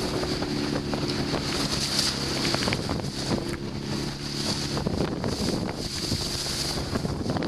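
Wind of about 30 knots buffeting the microphone over the rush of water around a sailing boat at speed. A steady low drone runs under it for the first five seconds or so, then stops.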